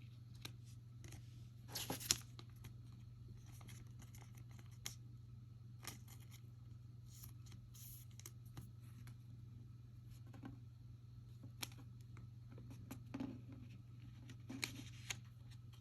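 Faint rustling and light clicks of trading cards being handled, slid and flipped through, with a louder flurry about two seconds in and another near the end, over a steady low hum.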